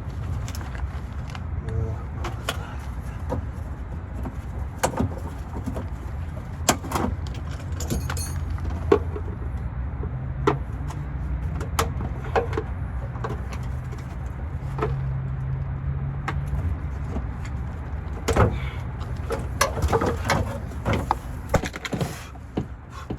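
Scattered metal knocks and clicks of hand tools and parts being handled on a vehicle, a cluster of them near the end, over a steady low rumble.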